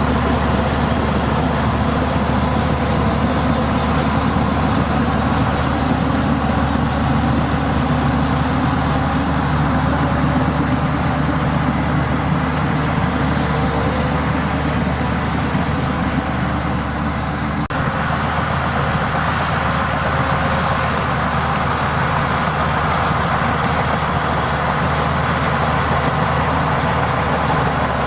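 Diesel engine of heavy earthmoving machinery running steadily under work, with a short dip and a click about two-thirds of the way through.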